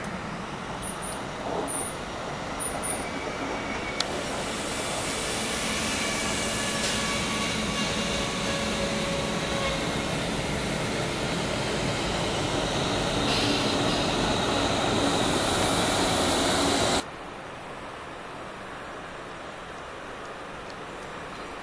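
ÖBB CityShuttle push-pull passenger train rolling past, its wheels on the rails growing louder, with faint squealing tones over the noise. About seventeen seconds in, a cut to a quieter, duller rumble of an ÖBB Taurus electric locomotive approaching with a freight train.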